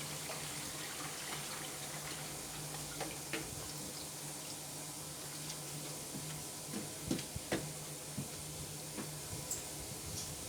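Warm water running steadily from a tap, with a low hum underneath and a few light knocks.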